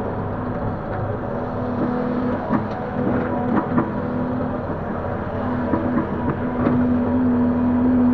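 Link-Belt 145X3E hydraulic excavator's diesel engine running steadily, its pitch dipping briefly a few times, with a scatter of sharp knocks and clanks through the middle.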